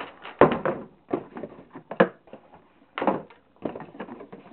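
Small plastic toy vehicles being handled and set down: a string of short, irregular knocks and clatters, with a sharper knock about half a second in and again at two seconds.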